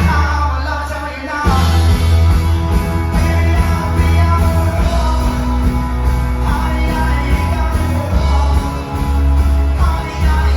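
Live rock band playing loud and amplified, with heavy bass and drums; the full band comes back in about a second and a half in after a brief lull.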